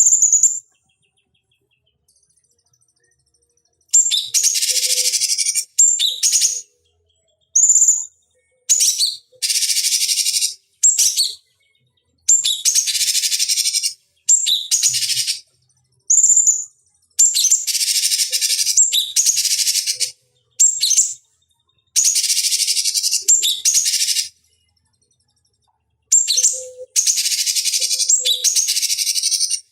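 Cucak cungkok singing: loud, harsh, buzzy phrases of one to two seconds, most opened by a short high note, repeated with brief pauses between them. The song starts after a few seconds of quiet.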